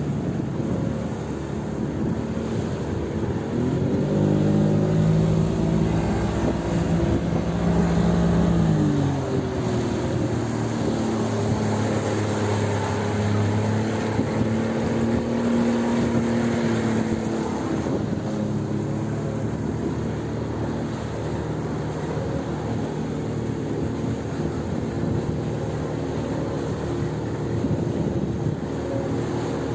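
1991 Evinrude 70 hp two-stroke outboard running under way, its note rising about four seconds in, dropping about nine seconds in, then settling to a steady drone, with wind and water noise.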